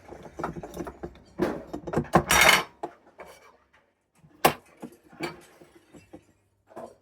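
Clicks and clinks of small hard parts being handled inside an opened Mercedes ESL steering lock module, with a short scraping rattle about two seconds in and a single sharp click a little past halfway.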